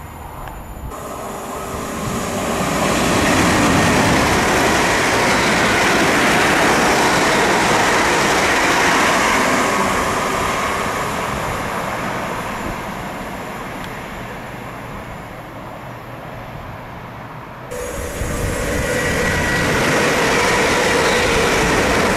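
A passing train: the rush of its wheels on the rails builds over a few seconds, holds, then fades. Near the end the sound changes abruptly to another loud, steady train noise with a faint hum.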